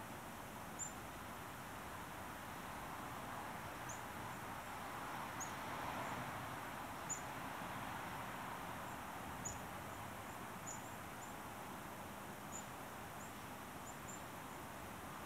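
Small songbirds giving short, high, downslurred call notes, scattered one every second or so. Beneath them is a steady background noise that swells and fades about halfway through.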